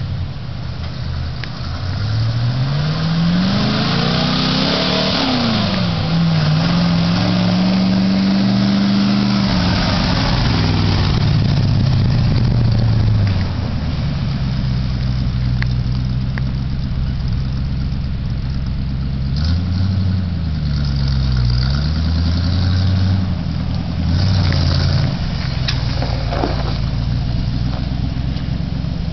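1961 Chevrolet truck engine revving up and easing back down, then settling into a steady idle, with two more quick revs about two thirds of the way through.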